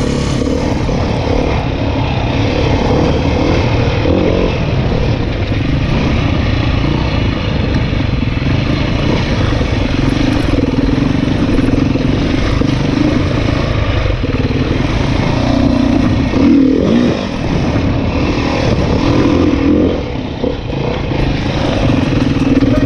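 Dirt bike engine running as the bike is ridden off-road, its pitch rising and falling with the throttle, with a brief drop in loudness about twenty seconds in.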